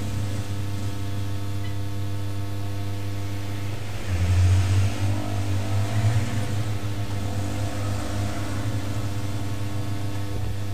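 A steady low machine hum with an engine-like drone. It swells louder for a couple of seconds about four seconds in, then settles back.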